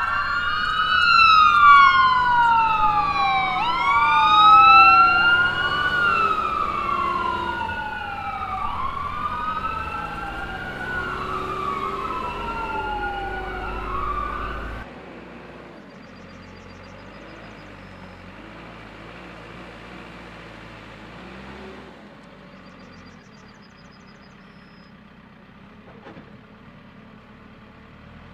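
Siren wailing up and down, about one cycle every two seconds, then cutting off suddenly about fifteen seconds in. A much quieter steady hum follows.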